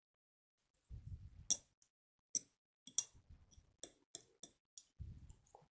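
Irregular light clicks and taps, about ten over a few seconds, with two dull low bumps: objects being handled and set down on a table.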